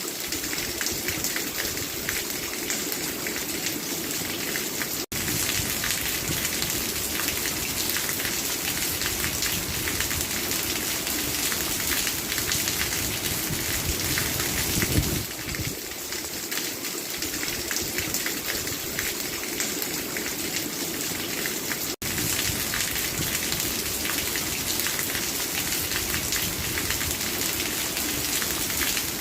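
Steady rain falling, an even hiss of many drops. The sound cuts out for an instant twice.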